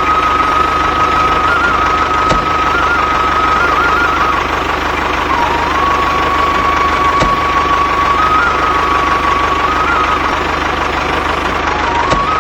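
Small electric motor of a DIY mini tractor running with a steady whine, its pitch stepping up and down a little as the load changes, with a few sharp clicks.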